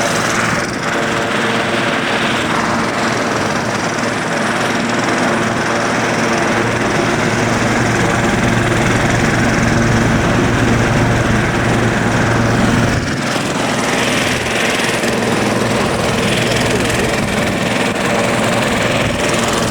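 Helicopter running nearby with a loud, steady rotor and engine beat. The deepest part of the sound drops away suddenly about 13 seconds in.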